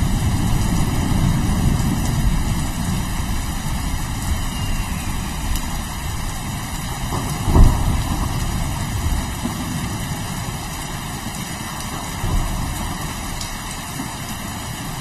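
Steady rain with a low rolling rumble of thunder, and one short, sharp thunder crack about seven and a half seconds in.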